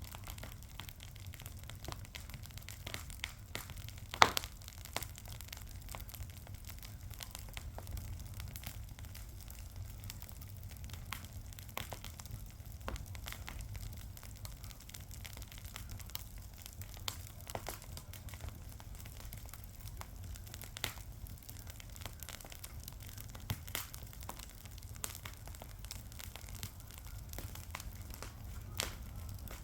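Wood fire crackling, with scattered sharp pops over a low steady rumble and one loud pop about four seconds in.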